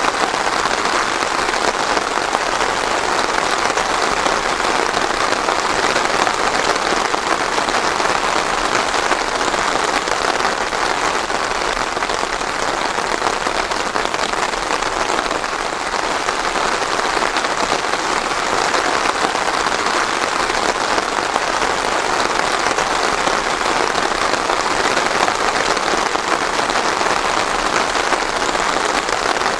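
Steady rain falling on a surface, a dense even patter of many drops, with no thunder.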